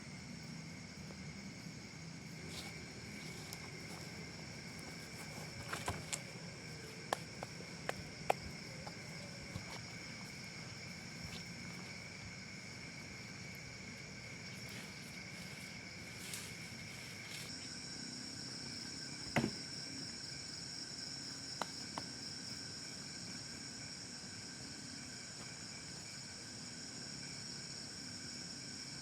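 Steady high-pitched trilling of insects such as crickets, in two or more pitches at once. About 17 seconds in, the lower voice stops and a higher one grows stronger. Scattered sharp clicks and knocks come through it, the loudest about 19 seconds in.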